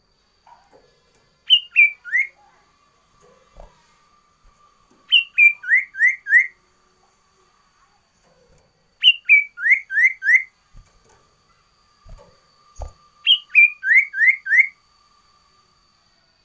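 Sirtu (cipoh) songbird singing four short phrases about four seconds apart, each a quick run of three to six clear whistled notes that slur upward, the first note of each higher than the rest.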